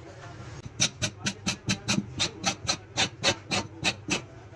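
A rapid, even series of sharp hand-tool strokes on a tractor tire, about four or five a second, starting about a second in and stopping shortly before the end.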